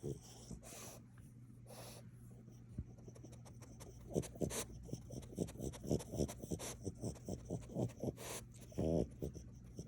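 French bulldog gnawing and chewing on wood, a fast run of short crunching clicks starting about four seconds in, after a couple of brief breathy puffs.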